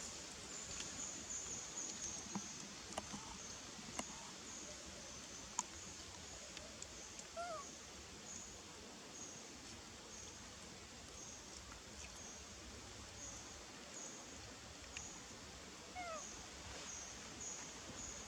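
Outdoor ambience with a steady high chirring that pulses about twice a second and a few faint clicks. Two short squeaky animal calls come about seven and sixteen seconds in.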